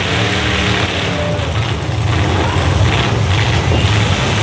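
Several demolition derby cars' engines running and revving together as the wrecked cars shove against one another, a steady, dense engine noise with no single crash standing out.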